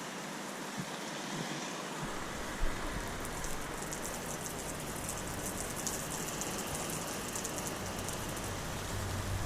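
Lawn sprinkler spraying water, a steady hiss of spray with droplets pattering down like rain.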